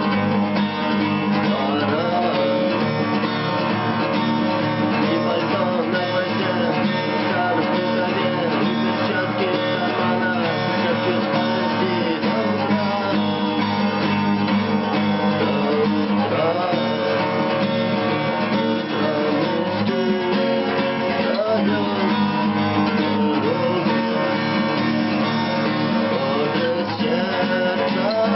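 Acoustic guitar strummed steadily, playing a song's chord accompaniment.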